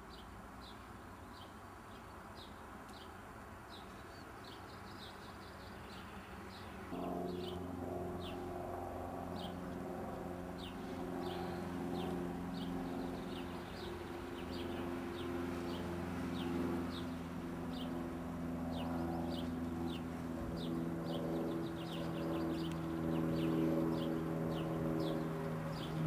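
A small bird chirping over and over, short high falling chirps about twice a second. About seven seconds in, a steady low mechanical hum starts and runs on under the chirps.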